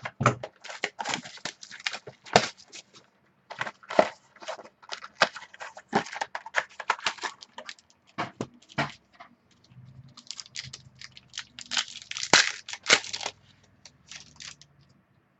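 A trading-card pack's wrapper being torn open and crinkled, and the cards handled and shuffled, making a dense run of crackly rustles and clicks with a couple of short pauses.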